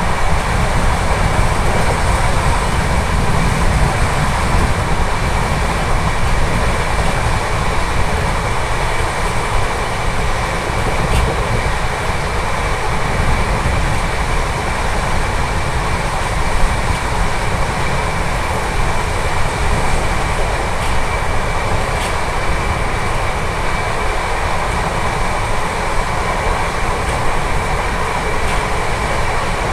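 Indian Railways express train running at speed, heard from an open coach door: a steady rumble of wheels on rail, with a few faint clicks.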